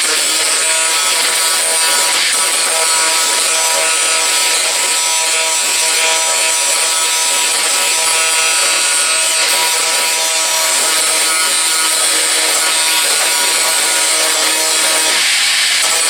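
Handheld power tool running steadily at one speed for the whole stretch, a constant motor whine under a strong high hiss.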